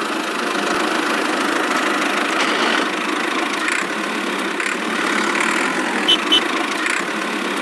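A steady engine running noise at an even level, with two short clicks about six seconds in.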